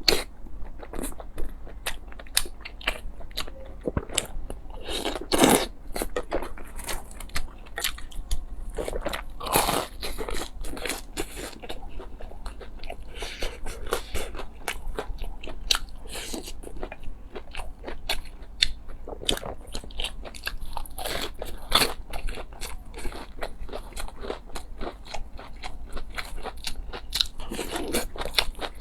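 Close-miked eating sounds: a steady, irregular run of crunchy bites and chewing, with a few louder crunches along the way.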